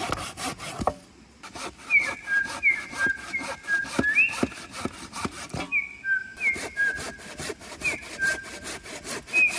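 Wood being sawn by hand: rapid rasping strokes, about five a second, with brief pauses about one second in and about six seconds in. Short high whistling chirps come in every half second or so.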